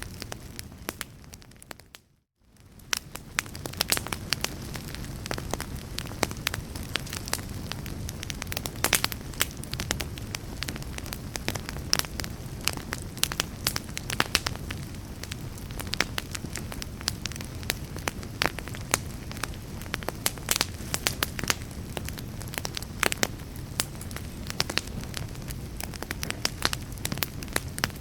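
Wood fire crackling: a steady low rumble of flames with frequent sharp pops and snaps. The sound fades out to near silence about two seconds in and fades back up within a second.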